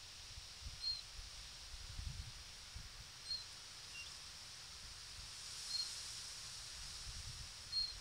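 A bird repeating one short, high, slightly falling call about every two seconds, over a faint low rumble and a steady high hiss.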